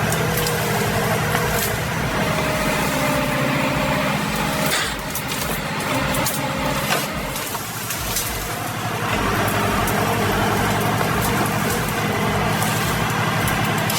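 Heavy machine engine running steadily under load, with scattered sharp clicks and knocks over it.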